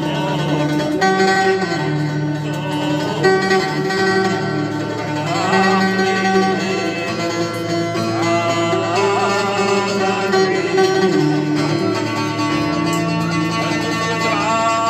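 Live instrumental music led by a plucked string instrument, playing a melodic line of held notes, some with vibrato, at a steady level.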